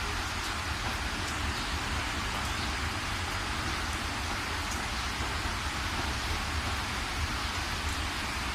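Rain falling steadily: a dense, even hiss of drops with a low rumble underneath.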